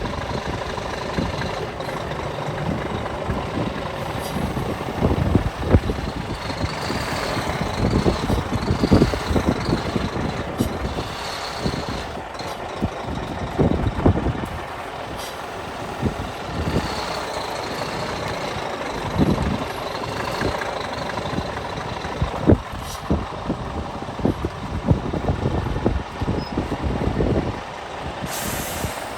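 Scania P 360 truck's diesel engine running, with scattered irregular knocks and a high wavering tone that comes and goes twice.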